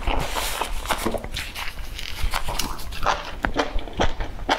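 Close-miked chewing of a mouthful of food, with many sharp mouth clicks and smacks at irregular intervals.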